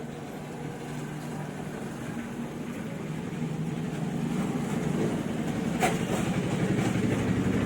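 A motor vehicle engine running nearby, a steady low hum that grows louder, with one sharp click about six seconds in.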